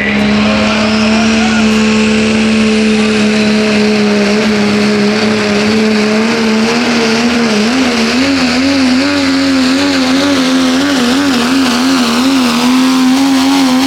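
Diesel four-wheel-drive pulling truck running at full throttle during a pull. Its engine note holds steady at first, then wavers rapidly up and down through the second half.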